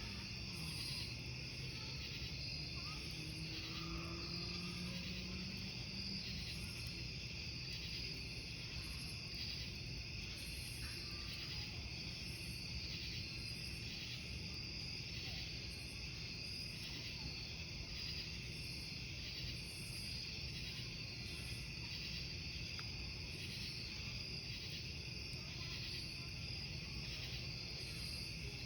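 Crickets chirping steadily in a continuous pulsing chorus, with a higher insect trill pulsing about once a second, over a low steady rumble.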